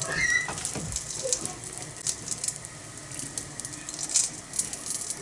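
Small okonomiyaki sizzling on a thick iron griddle over a small wood fire, with irregular crackles and pops over a faint steady hiss.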